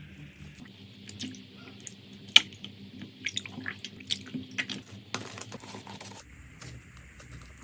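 Slime being handled, squeezed and poked: a quick run of wet, sticky clicks and pops, with one sharp pop about two and a half seconds in.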